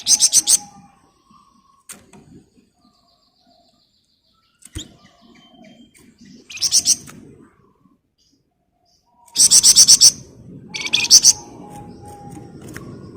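Flamboyan bird singing its rapid, tightly packed trill ("ngebren rapat") in short bursts, four in all, the longest about a second long near the two-thirds mark. A faint steady hiss sits under the later bursts.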